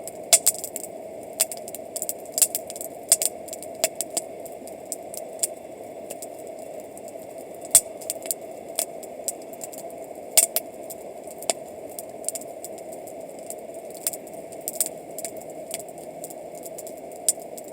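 Wood campfire crackling, with irregular sharp pops and snaps over a steady background hiss.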